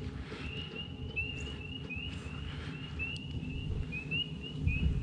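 Birds chirping: a run of short, high, rising chirps, two to three a second, over a steady low rumble.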